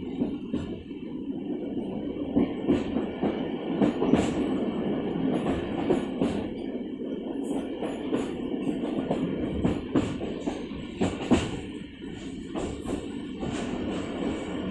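Moving passenger train: a steady rumble of wheels on the rails, with irregular knocks and clatter from the running gear and coaches.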